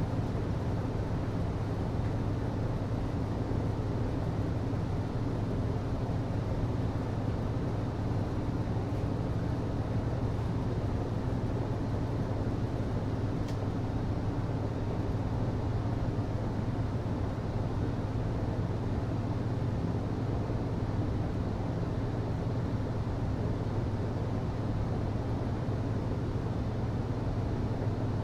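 HVAC system running: a steady low hum over an even rush of air, unchanging, with a faint click about halfway through.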